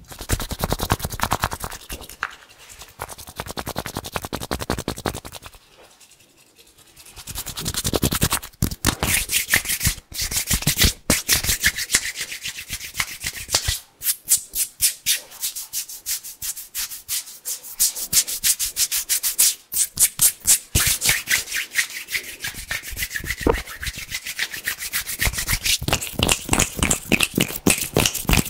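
Bare hands rubbing and brushing together fast and hard, a crisp, dry rasping in rapid strokes, with a short quieter pause about six seconds in.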